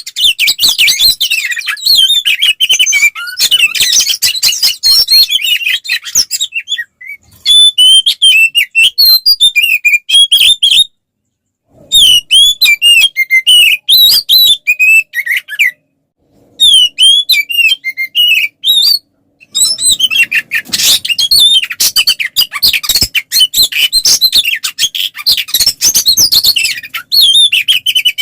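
Oriental magpie-robin (kacer) singing loud and fast: a dense run of varied whistles, slurred chirps and chatter in a full, aggressive fighting song. It breaks off briefly a few times.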